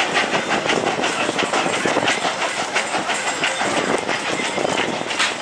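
Narrow-gauge passenger train rolling along, heard from aboard: a quick run of wheel clicks and clatter over the rails above a steady rumble.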